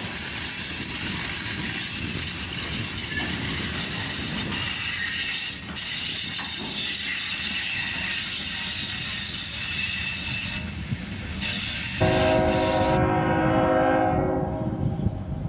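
Freight cars rolling past on steel wheels, with a steady rush and high wheel squeal. After an abrupt change about twelve seconds in, a diesel locomotive's multi-chime air horn sounds one chord that fades near the end.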